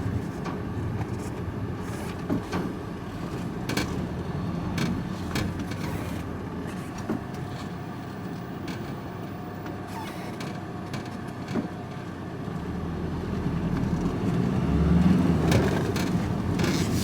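Van engine and road noise while driving, a steady low rumble with scattered light clicks and rattles; the rumble grows louder about thirteen to sixteen seconds in.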